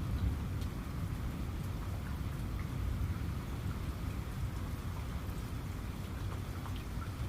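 Steady rain, with scattered single drops ticking over a low, continuous rumble.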